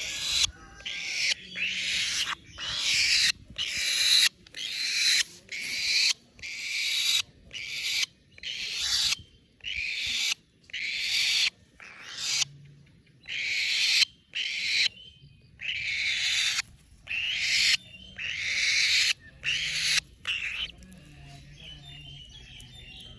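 A baby falcon calling over and over with harsh, rasping screeches, a little more than one a second, the food-begging calls of a young falcon at feeding time. The calls stop about 21 seconds in.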